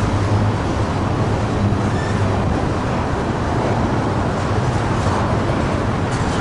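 Train rolling past: a steady, loud rumble of wheels on rail with the low hum of the locomotives' diesel engines.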